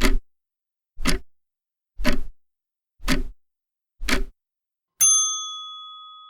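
Countdown-timer sound effect: five clock ticks a second apart, then a bell-like ding that rings on and fades away.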